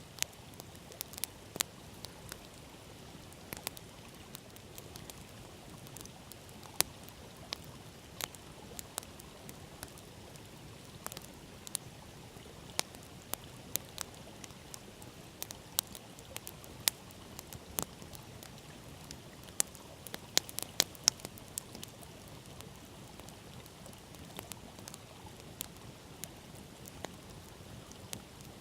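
Open wood campfire crackling, with irregular sharp pops and snaps over a steady low rush of the river alongside.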